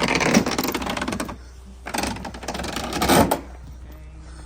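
Rattling and clattering from objects being handled, in two bursts, the second ending about three and a half seconds in.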